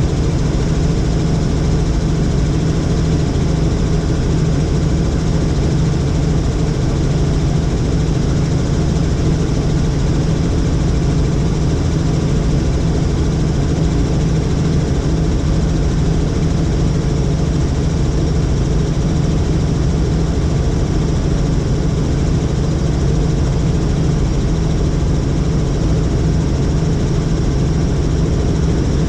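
Helicopter in flight, heard from aboard: a loud, steady drone of turbine and rotor with a low hum, unchanging throughout.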